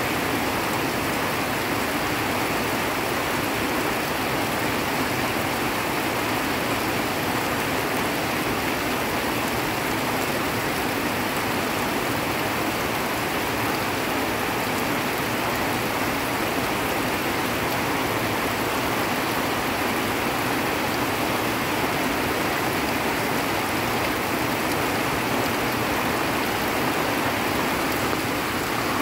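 Heavy rain falling on trees and foliage, mixed with muddy runoff water rushing down a hillside, a steady, unbroken wash of noise.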